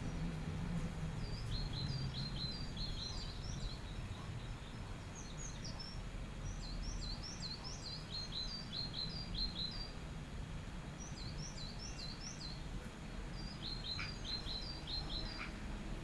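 Small bird chirping in quick runs of short, high chirps, four bursts a few seconds apart, over a steady low background rumble.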